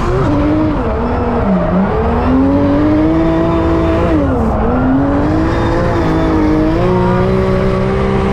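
Drift car engine under hard driving, its revs dipping and climbing back three times in the first five seconds, then held high to the end.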